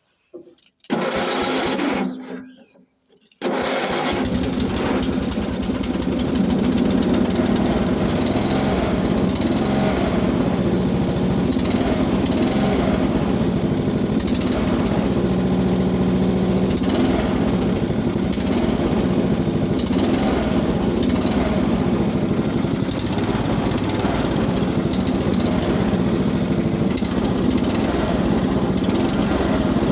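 Cub Cadet 80 garden tractor's single-cylinder engine being started from cold. There is a short first attempt about a second in. The engine catches about three and a half seconds in and settles into a steady run.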